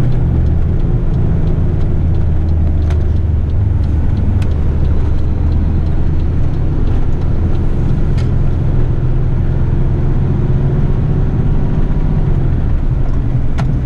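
Heavy eight-wheeler rubbish truck's diesel engine running steadily under way, heard from inside the cab, with a deep low drone; the deepest part of the note eases off near the end.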